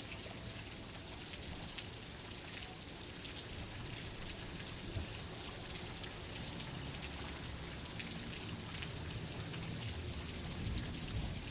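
Steady rain falling: an even hiss of rain with many small drop ticks running through it.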